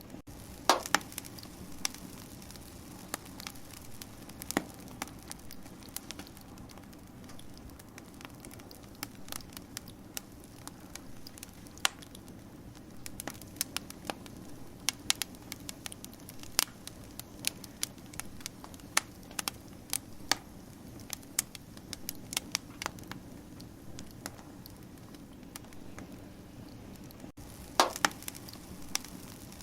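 Wood fire crackling: a steady low rush of burning under irregular sharp pops and snaps, with a few louder pops about a second in and near the end.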